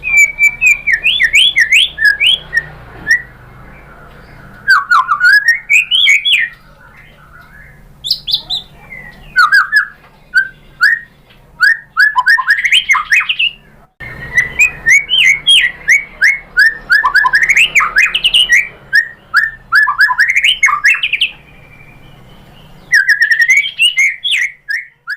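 White-rumped shama singing: bursts of quick, rapidly gliding whistled and chirping notes in phrases of a second or two, with short pauses between them, over a faint low hum.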